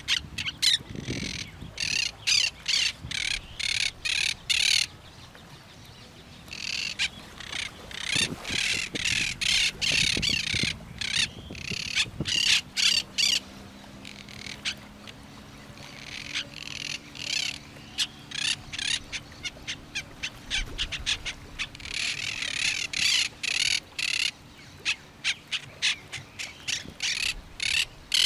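Birds calling in long runs of short, repeated notes, about two to three a second, with a couple of brief pauses between runs.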